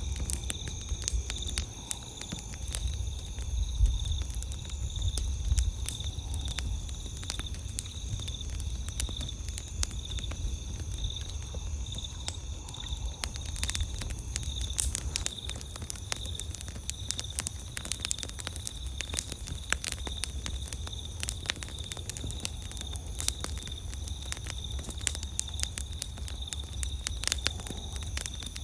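Campfire crackling, with frequent sharp pops and snaps of burning wood and a low rumble underneath. Behind it runs a steady, high-pitched chirring of night insects.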